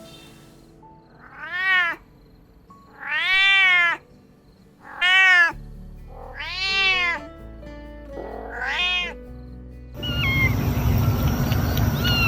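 Kitten meowing five times, each meow a rising-then-falling call about half a second to a second long, spaced a second or so apart. Near the end a hissy outdoor ambience with short bird-like chirps comes in.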